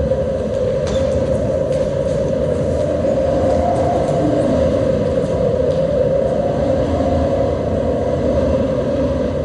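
A steady, loud rumbling noise with no clear rhythm or pitch changes.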